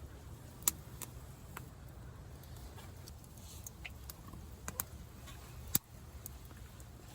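Campfire crackling: scattered sharp pops and snaps at irregular intervals, the loudest about a second in and near the end, over a low steady background rumble.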